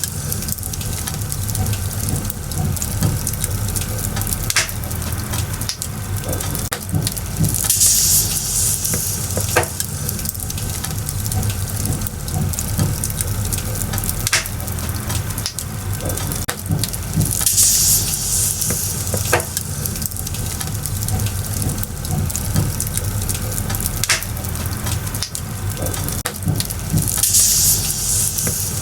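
Firewood burning, with a steady crackle and sharp pops every couple of seconds. A brief high hiss flares up about every nine seconds.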